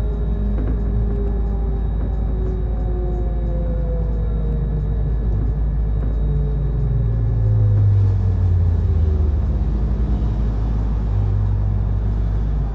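Interior ride sound of a Mitsubishi Fuso Aerostar Eco Hybrid city bus under way: the electric drive's whine falls slowly in pitch, as it does when the bus slows, over a steady low road rumble. A louder low drone swells briefly about halfway through.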